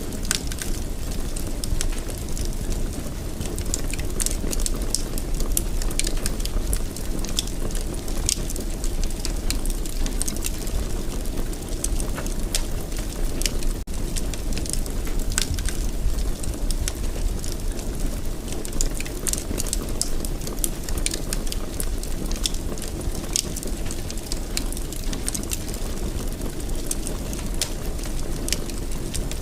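Fireplace fire crackling: many irregular sharp crackles and pops over a steady low rumble.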